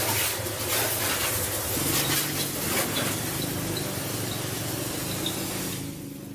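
A small 110cc motorbike engine running steadily under a loud hiss, both dropping off about a second before the end.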